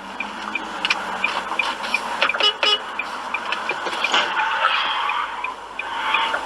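A moving car heard from inside, with road noise and a high tick repeating about three times a second, and a few sharp knocks about halfway through.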